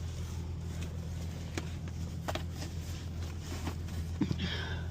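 Semi truck's engine idling, a steady low hum heard inside the sleeper cab, with a few soft handling clicks and a brief rustle near the end.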